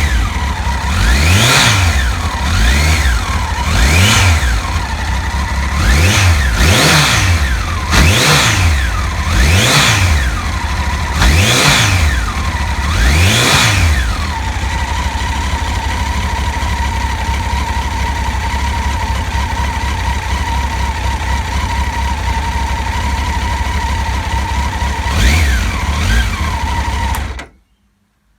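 Honda CBR1100XX Blackbird's inline-four engine being blipped in a series of quick revs, then settling into a steady idle. There is one more blip shortly before the sound cuts off. The engine is running with freshly replaced cam chain tensioners.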